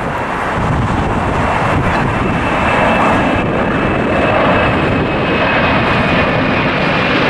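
Jet airliner taking off at full thrust: a loud, rushing engine noise that builds over the first few seconds and then holds steady, with a thin high whine running through it.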